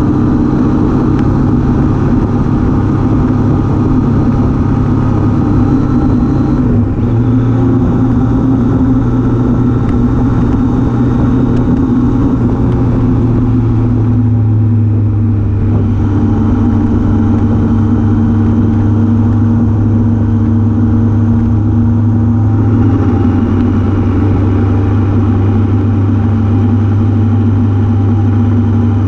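Triumph Daytona T595 motorcycle's three-cylinder engine running under way on the road. The engine note holds steady, then shifts pitch in steps a few times.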